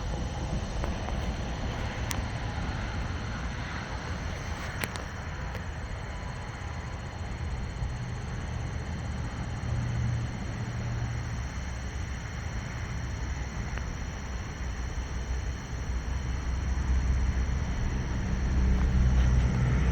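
Thunder rumbling low and long, swelling again near the end.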